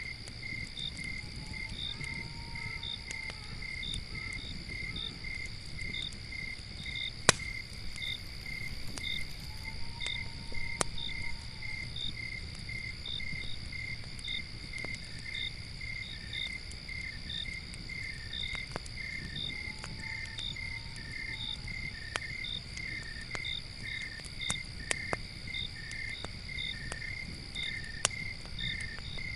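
Crickets chirping in steady, even pulses over a continuous high insect trill, with scattered sharp pops of a crackling campfire, the loudest about seven seconds in. A soft rising-and-falling call comes three times, about nine seconds apart, over a low rumble.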